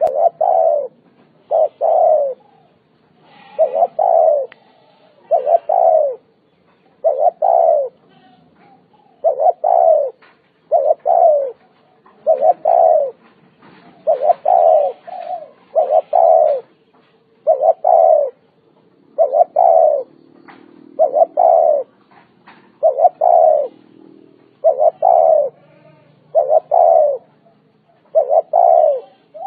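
Spotted dove cooing: a steady series of short, doubled coo phrases, repeated about every one and a half to two seconds.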